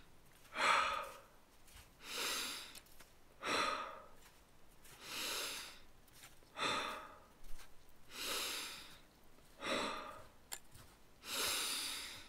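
A person breathing deeply and rhythmically through the mouth, about four full in-and-out breaths, one every 3 seconds or so. The breathing is typical of Wim Hof-style power breathing.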